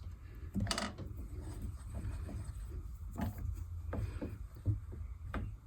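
Scattered, irregular knocks and clicks of tools and metal parts being handled in a workshop, over a steady low hum; the loudest knock comes a little under a second in.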